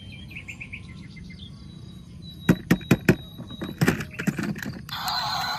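A quick run of short bird chirps, then a handful of sharp knocks in quick succession, with music starting near the end.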